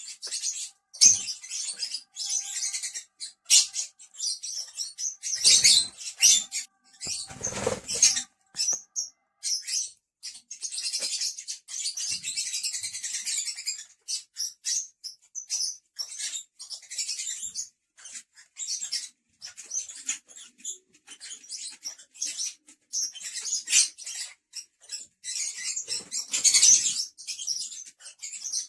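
Pet lovebirds chattering in many short, high-pitched chirps, with a louder, deeper rustle about eight seconds in and again near the end.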